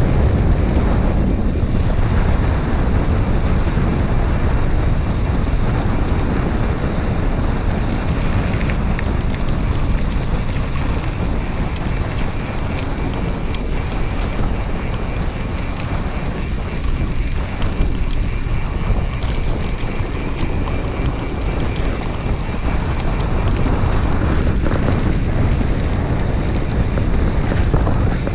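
Wind buffeting the microphone of a camera carried on a moving bicycle, a loud, steady rumble that goes on throughout.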